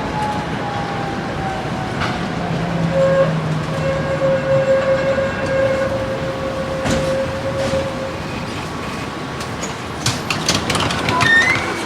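A tram running on its rails, with a whine that falls slowly in pitch and then holds steady over the rumbling noise of the wheels. Near the end comes a cluster of clicks and knocks.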